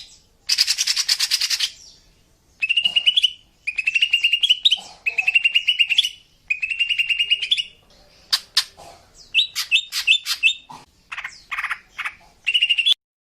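Female green leafbird (cucak ijo) calling in a series of short, rapid trilled phrases, with a harsh buzzy burst near the start and a few sharp clicking notes midway. The calls stop abruptly near the end.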